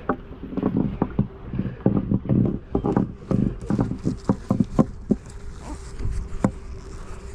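Honeybees buzzing around the hives, a faint steady hum, under a quick run of knocks and clatters from hive equipment being handled.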